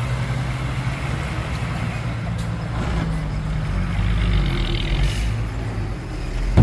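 Heavy diesel engine of earthmoving machinery running steadily, its pitch rising slightly about four seconds in, with two short hisses.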